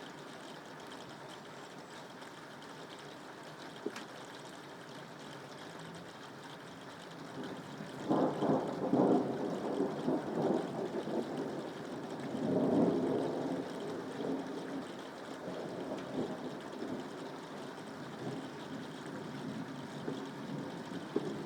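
Soft, steady rain with a roll of thunder coming in about a third of the way through; the rumble swells twice, then dies back to a low roll under the rain.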